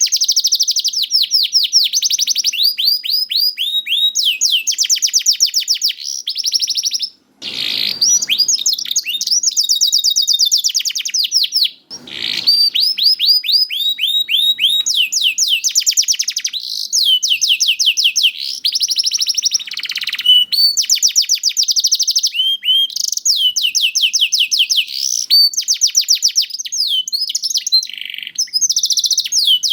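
Young domestic canary singing a long run of rapid trills, each made of fast repeated notes, switching from one trill to the next with only two brief breaks.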